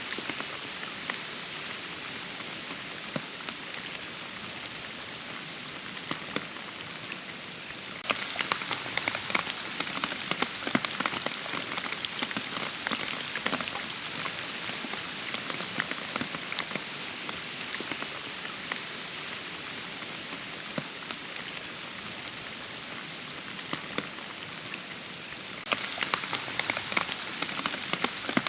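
Steady rain falling, with many separate drops ticking through the hiss. It abruptly grows louder, with more drop ticks, about eight seconds in and again near the end.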